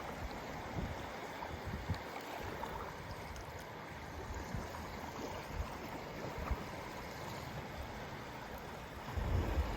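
Waves on a large lake with steady wind, an even wash of water noise; low gusts of wind hit the microphone near the end.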